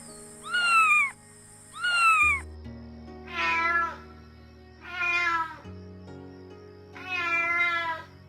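Kitten meowing five times in a row, each call a short pitched mew, over background music of long held notes.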